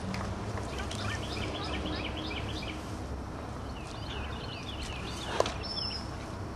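Small birds chirping in quick repeated runs, one about a second in and another about four seconds in, over a steady low outdoor rumble. A single sharp click about five and a half seconds in.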